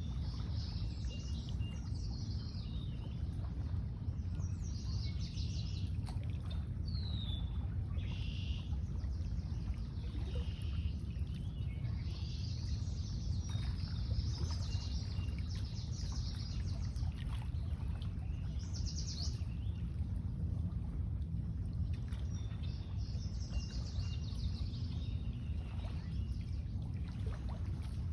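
Small birds chirping and trilling on and off, with several different calls, over a steady low rumble.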